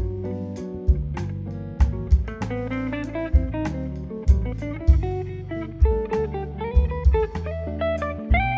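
Instrumental quartet music: a guitar playing a melodic line over double bass and drum kit, with sharp drum hits about once a second.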